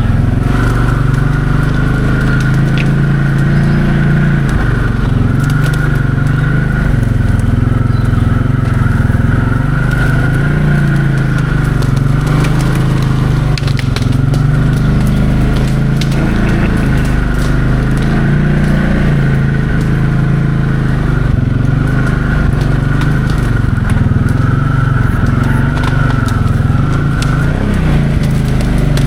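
Can-Am 700 XMR ATV engine running steadily while riding a rough trail, its pitch rising and falling a little with the throttle, with scattered crackling and snapping from brush and debris under the tyres.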